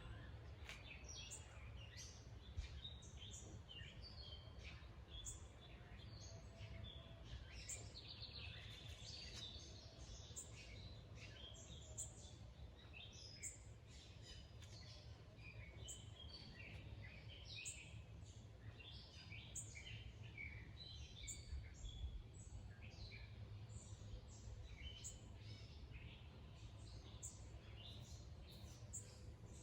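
Faint birdsong outdoors: many short, high chirps and calls from several birds, continuing throughout over a low, steady rumble.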